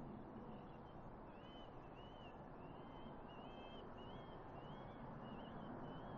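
A small songbird singing a string of short warbling chirps over a faint steady background rumble.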